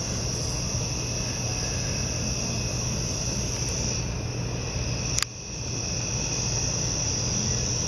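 Steady, high-pitched chorus of insects singing, with a single click about five seconds in, after which the sound briefly dips.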